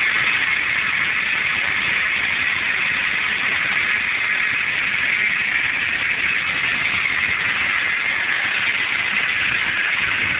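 Holden VX SS Commodore's 5.7-litre LS1 V8, fitted with a big aftermarket cam, idling steadily in the open engine bay, with a strong steady hiss over the engine note.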